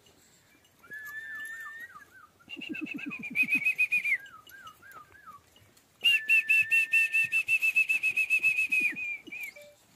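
Birds calling close by, at least two at once: one gives a run of quick falling whistled notes, another a fast, high trill. The trill comes twice, briefly at about three seconds in and then louder for about three seconds from six seconds in.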